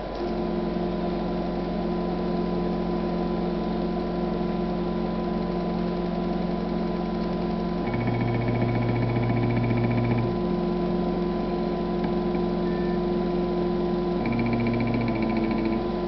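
Stepper motors of a DIY CNC hot-wire foam cutter driving its axes, giving a steady multi-tone hum. The hum starts just after the opening and changes pitch a few times as the motors change speed.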